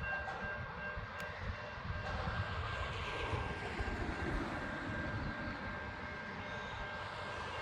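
Long intermodal freight train running past on a climb: a steady low rumble with a thin, steady high whine.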